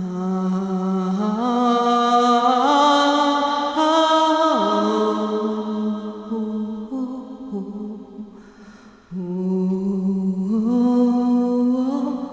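Wordless vocal chanting: one voice holds long, sustained tones that step upward note by note, then slide down. After a short pause about nine seconds in, a new rising phrase begins.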